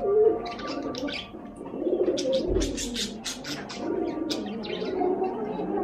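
Birds calling: a low, rolling cooing that goes on throughout, with clusters of short, sharp high chirps over it.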